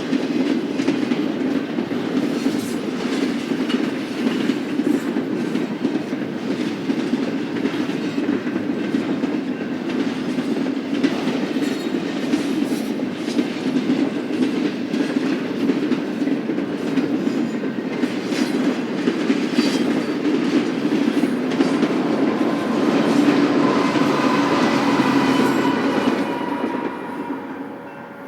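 Freight train cars rolling past, a steady rumble of wheels on rail with repeated clicks over rail joints and some faint wheel squeal. The sound fades away near the end as the train moves off.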